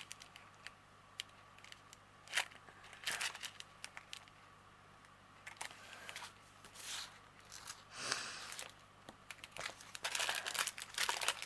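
Small plastic packets of diamond-painting drills crinkling as they are handled and sorted, in short scattered rustles with a few sharp clicks.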